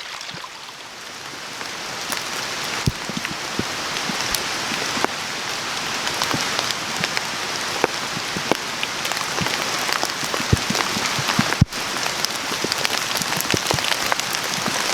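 Steady rain falling, with many separate drop hits standing out, slowly growing louder over the first few seconds; the sound cuts out for an instant about two-thirds of the way through.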